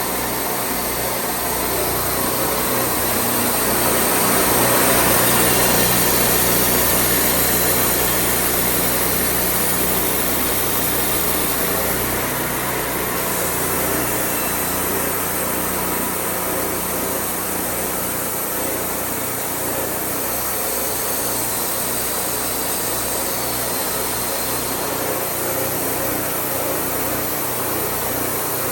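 Portable band sawmill running steadily, its engine droning under the noise of the blade, a little louder for a few seconds near the start.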